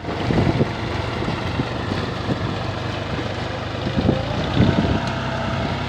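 Mahindra 265 tractor's diesel engine running steadily, with a few sharp knocks over it.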